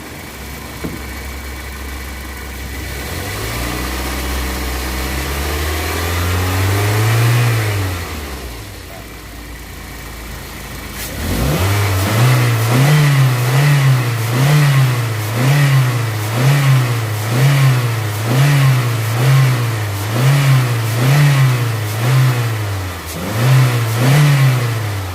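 Toyota car engine revved slowly up and back down, then blipped repeatedly, about once a second, each blip a short rise and fall in pitch.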